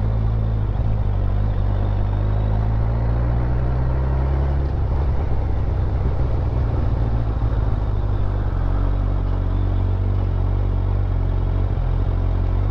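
Motorcycle engine running as the bike is ridden along, its pitch rising and falling with the revs, over steady wind and road noise.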